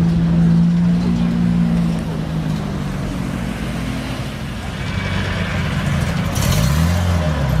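Car engine and exhaust running with a steady, loud note that eases off after about two seconds. Near the end the note rises and falls again, like a short rev.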